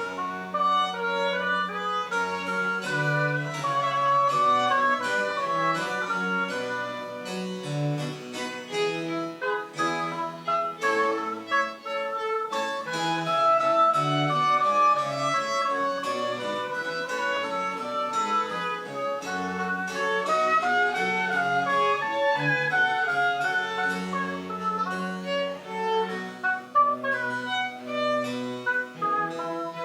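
French Baroque chamber music played live, with bowed strings carrying a busy upper melody of quick notes over a moving bass line.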